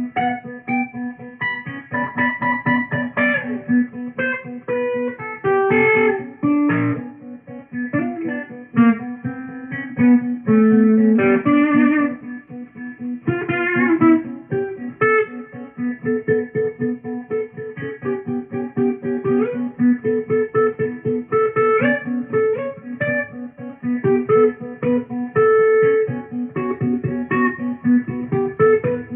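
Solo guitar improvisation: quick plucked notes, with a low note picked over and over beneath wandering melody lines and occasional fast runs.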